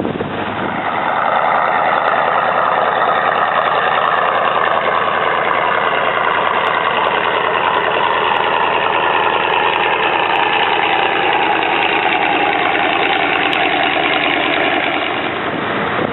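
Boat engine running steadily, its pitch sinking slowly. It grows louder about a second in and eases near the end.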